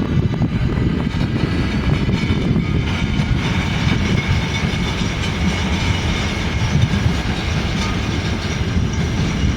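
Train running past at close range: a loud, steady rumble with a faint high whine held over it.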